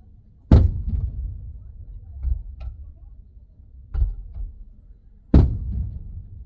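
Fireworks shells bursting, heard muffled from inside a car: three sharp booms with rumbling tails, about half a second in, at about four seconds and about a second before the end, with a weaker thud between.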